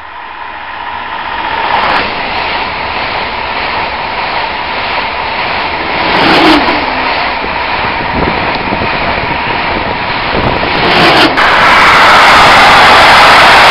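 An ICE 2 high-speed train passing right below, a steady rushing of air and wheels on rails that builds over the first two seconds and is loudest about six seconds in as the power car goes underneath. About eleven seconds in, a cut to a louder, steadier rumble: a class 152 electric locomotive hauling a freight train of lorry trailers past the station.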